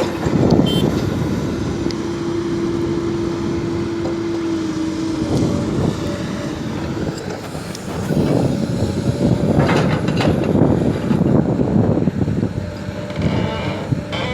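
Hydraulic excavator's diesel engine running under load while digging and loading soil, with a steady whine for a few seconds and the engine growing louder in surges in the second half.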